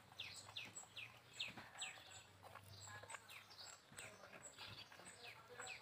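A small bird chirping over and over: a quick series of short chirps that fall in pitch, about two or three a second, with faint high ticks between them.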